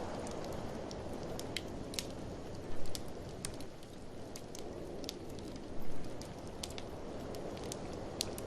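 Wood fire crackling in a fireplace, sharp pops scattered irregularly throughout, over a steady rush of blizzard wind. Two brief louder surges come about three and six seconds in.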